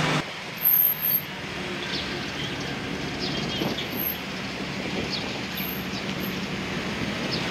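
A Nissan Leopard J Ferry sedan creeping past at low speed, its engine a steady low hum. A couple of loud short bumps about a second in.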